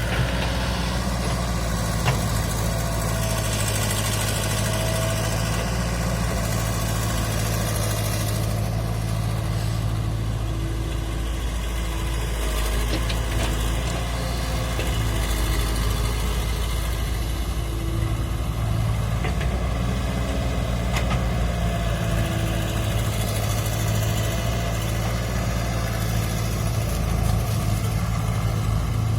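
Sonalika DI 750 tractor's diesel engine running steadily at a low, even pitch.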